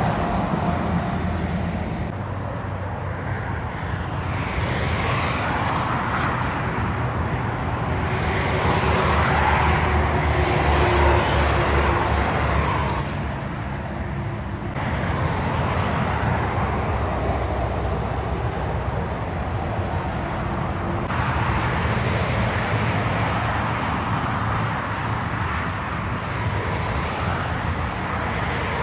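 Highway traffic passing, trucks and cars, with diesel engine rumble and tyre noise swelling and fading. The rumble is loudest about midway, and the sound changes abruptly a few times.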